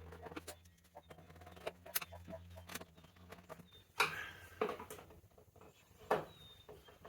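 Scattered clicks, knocks and scrapes of scooter parts being handled and fitted back together, with a louder scraping rustle about four seconds in. A faint low hum stops about halfway through.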